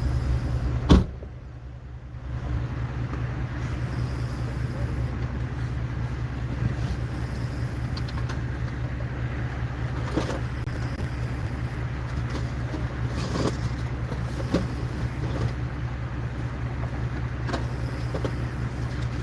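An engine running steadily with a low hum. There is a sharp knock about a second in and a few light clicks and knocks after it.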